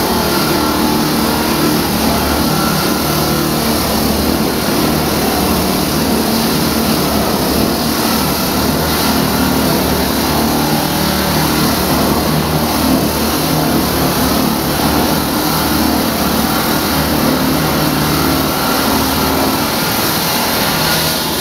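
Engine-driven diamond-blade concrete saw running and cutting steadily: a constant motor hum under a loud gritty hiss.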